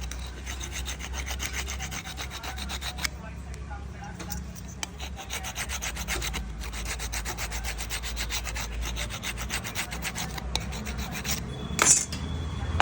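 Scooter drum brake shoe linings being rubbed back and forth against an abrasive surface in fast, even strokes, roughening the glazed lining to cure brake noise. A sharp clack comes near the end.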